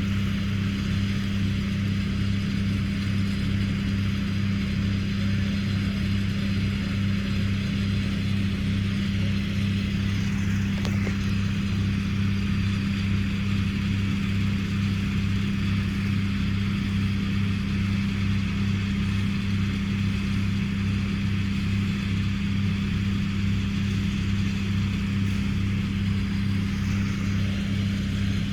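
An engine running at a steady speed, a constant low drone that never changes pitch.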